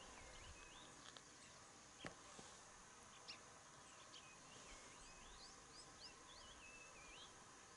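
Faint bird calls: a run of short whistled chirps that swoop up and down, with a couple of soft clicks.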